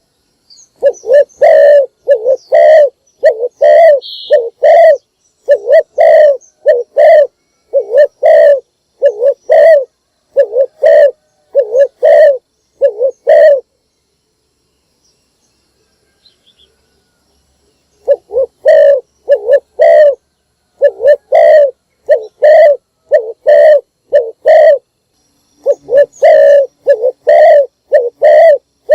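Spotted dove cooing: a long series of loud, repeated low coo notes in phrases, broken by a pause of about four seconds around the middle.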